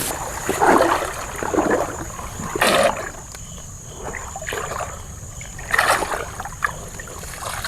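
Water splashing and sloshing in a string of irregular bursts, the loudest about two and three quarters and six seconds in.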